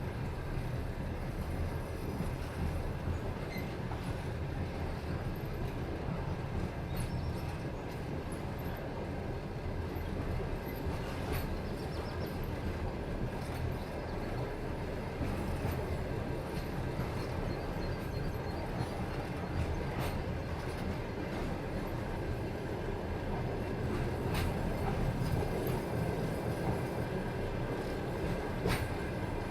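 Railway train rolling on the rails: a steady low rumble with a few sharp clicks.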